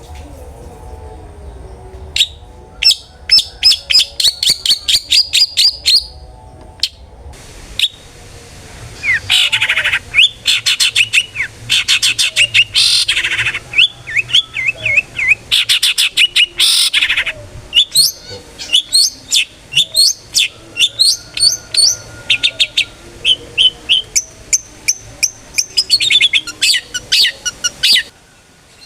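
Long-tailed shrike (cendet) singing its loud 'ngeplong' song: long runs of rapid, sharp repeated notes and chatters, broken by a few short pauses, stopping shortly before the end.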